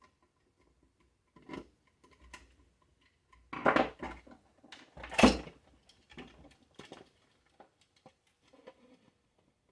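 Scattered clicks and knocks of small parts and a tool being handled while the blender base is taken apart, with two louder clatters around four and five seconds in.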